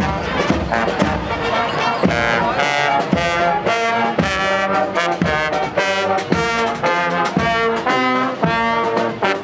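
Marching brass band playing a tune, trombones and trumpets holding notes, with drum strokes keeping a regular beat.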